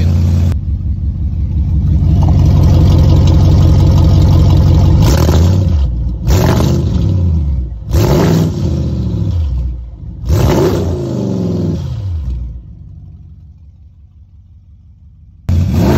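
Audi S7's 4.0-litre twin-turbo V8, its exhaust open straight off the downpipes with no mid pipe, held at high revs for a few seconds, then blipped sharply four times, each rev falling back. The engine note then dies away about twelve seconds in, and a loud idle cuts in abruptly near the end.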